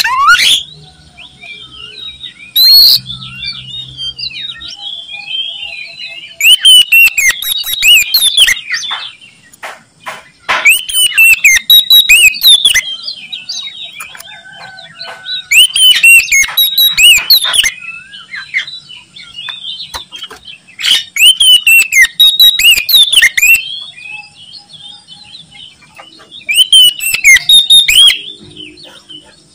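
Oriental magpie-robin (kacer) singing hard: five loud bursts of rapid, varied whistled song, each about two seconds long, with softer calls and chatter between them.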